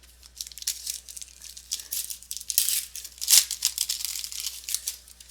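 Baseball trading cards being handled and shuffled through by hand, a dense run of crisp rustling and clicking that is busiest in the middle.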